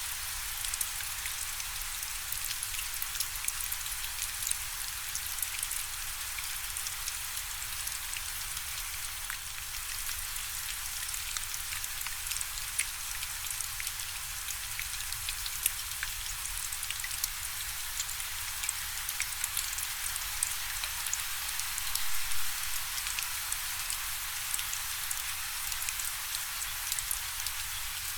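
Steady rain falling: a dense, even hiss with many separate drop ticks scattered through it, and a brief louder flurry about three quarters of the way through.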